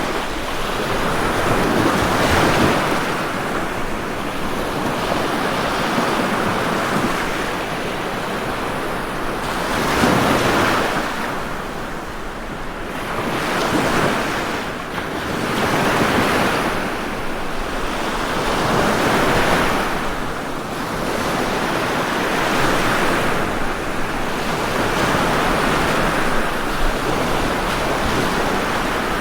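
Ocean waves breaking and washing on a shore, a steady rush that swells and falls back every few seconds.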